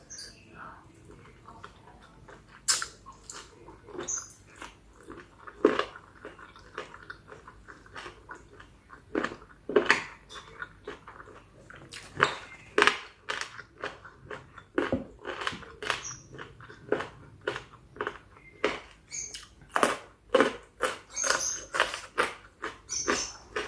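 Close-miked eating of spicy chicken-feet salad: irregular wet chewing, crunching and lip-smacking clicks as the skin and cartilage are bitten and sucked off the bones.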